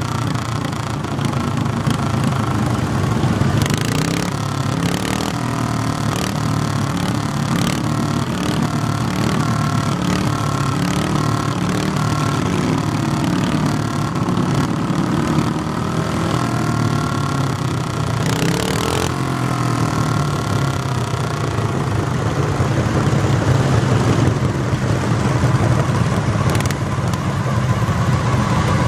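Garden tractor engine running steadily, with a couple of brief whooshes of noise partway through.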